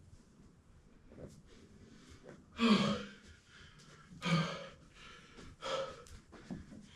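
A man's voice gasping out loud three times, about a second and a half apart, each gasp short; the first is the loudest.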